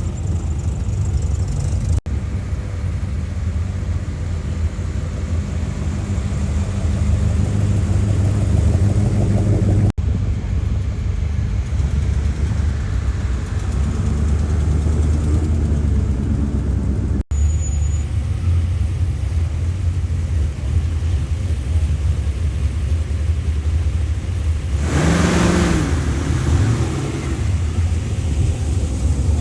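Car engines idling with a steady low rumble, with a brief louder burst, like a rev, about 25 seconds in.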